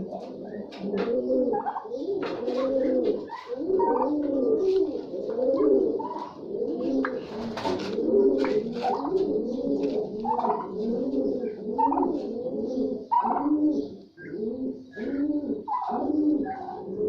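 Many pigeons cooing together: a dense, continuous chorus of overlapping low, rolling coos, with short higher chirps scattered through it.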